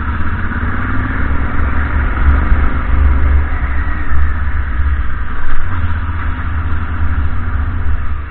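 Motorcycle engine running at low speed, a steady low rumble, mixed with wind and road noise on a bike-mounted camera's microphone.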